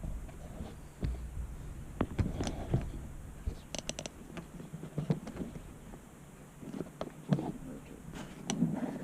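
Irregular light knocks and clicks at an uneven pace over a faint low hum, with a quick run of sharper clicks about four seconds in.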